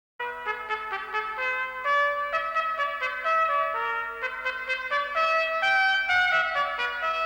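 Brass music led by trumpet, a quick run of changing notes starting abruptly just after the start.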